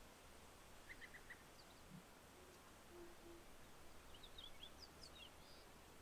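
Faint natural ambience with a steady low hiss and distant small birds chirping: a quick run of four short notes about a second in, and a scatter of higher chirps in the second half.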